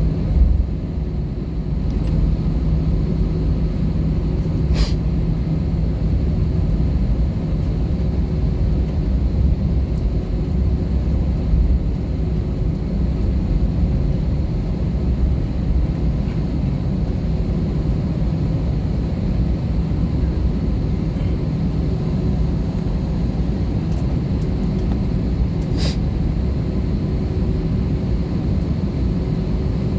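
Steady drone inside the cabin of an Airbus A320-214, a low rumble with a steady hum from its CFM56 engines. Two short faint clicks come through it, about five seconds in and again near the end.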